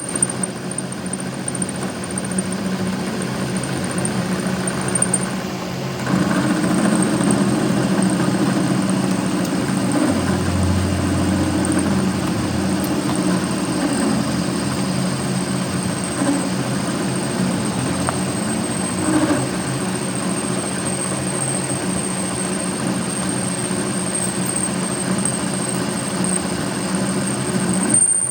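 A workshop machine's motor running steadily with a low hum and a thin high whine, getting a little louder about six seconds in.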